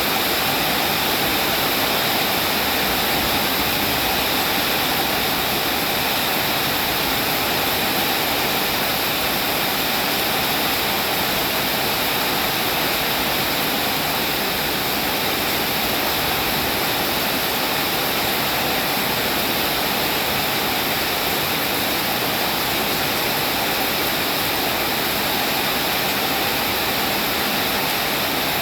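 Steady rain falling: a constant, even hiss with no single drops, thunder or other events standing out.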